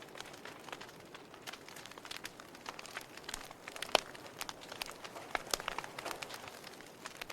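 Wood fire crackling in a fireplace: irregular pops and snaps over a soft hiss, with one sharper pop about four seconds in.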